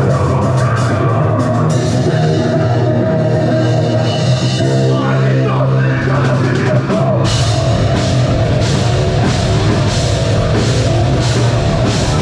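A live metal band playing loud: distorted guitars and bass over a drum kit. About seven seconds in, the drums and cymbals hit harder and the low end fills out.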